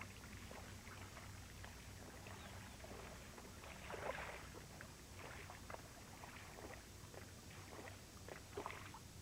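Faint splashing and sloshing of water in a series of small, scattered splashes, with a slightly louder splash about four seconds in.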